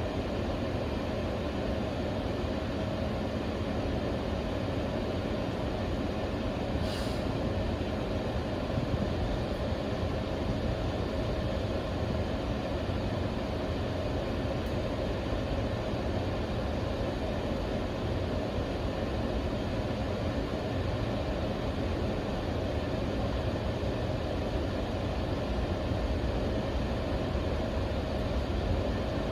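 Steady hum inside a stopped electric commuter train car, from its air-conditioning and on-board equipment running while it waits at a signal station, with a brief hiss about seven seconds in.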